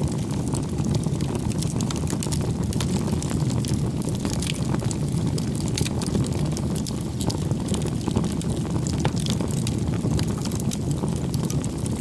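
Campfire burning: a steady low rumble of flames with frequent small, irregular crackles and pops from the burning wood.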